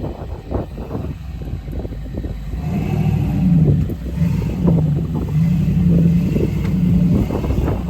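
Off-road vehicle engine revving in several surges, its pitch rising and falling, from about three seconds in. Before that the engine runs lower under scattered knocks and clatter.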